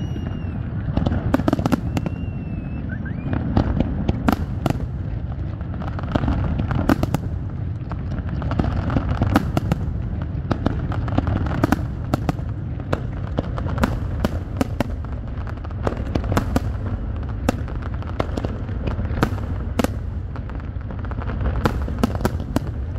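Fireworks display: aerial shells bursting in quick, irregular succession, many sharp bangs over a continuous low rumble.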